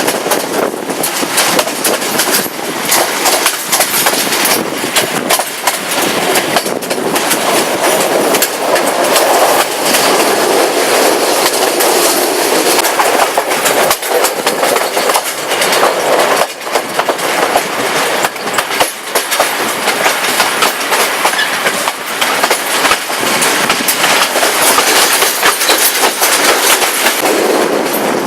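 Passenger train running along the track: a loud, steady rumble of wheels on rails, broken by the clickety-clack of wheels striking rail joints.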